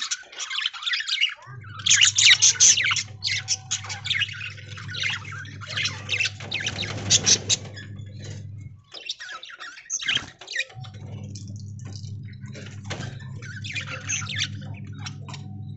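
A flock of budgerigars chattering and squawking over one another in rapid, overlapping calls. Under them runs a steady low hum that cuts out twice, about a second in and again past the middle.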